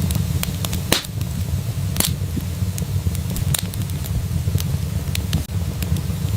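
Wood fire burning in a fireplace: a steady low rumble of flames with scattered sharp crackles and pops from the burning logs, the loudest about one and two seconds in.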